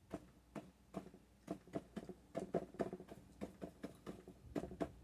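A paintbrush loaded with oil paint dabbing repeatedly against a stretched canvas, an irregular run of soft taps, about three a second, as leaves are stippled onto a tree.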